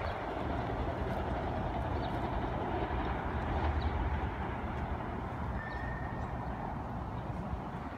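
Low rumble of a train on the Long Island Rail Road tracks, slowly fading. A brief high-pitched tone sounds about six seconds in.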